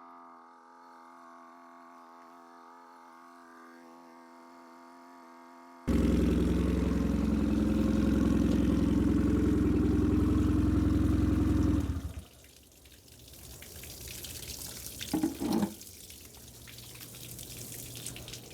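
A faint steady hum, then about six seconds in the Nissan 15 hp four-stroke outboard suddenly runs loud for about six seconds before dropping away. After that, the cooling-water tell-tale stream splashes and trickles, with the engine still running low beneath it and a couple of short knocks about halfway through. The stream is weaker than it should be because the motor is running on flushing muffs rather than sitting in water.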